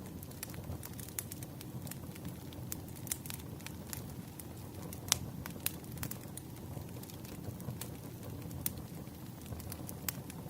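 Wood campfire burning: a steady low rumble of flames with irregular crackles and snaps, and one sharp pop about halfway through.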